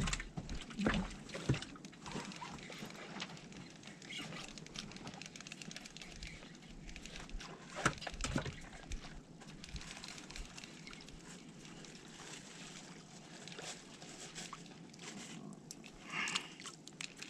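Low steady outdoor background noise with scattered sharp clicks and knocks, and a brief faint voice near the end.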